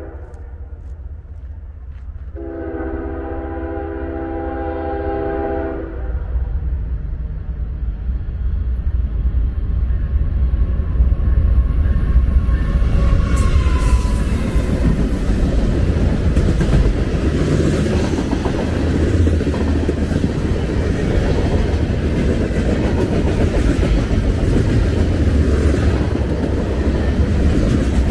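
A Norfolk Southern diesel freight locomotive sounds one horn blast of about three seconds, a couple of seconds in. Its low engine rumble then builds as it approaches and passes, and the freight cars roll by with wheels clicking over the rail joints.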